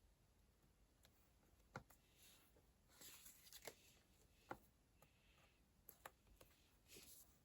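Faint handling of a paper planner at a desk: a few light taps and clicks, with short papery rustles in the middle and near the end.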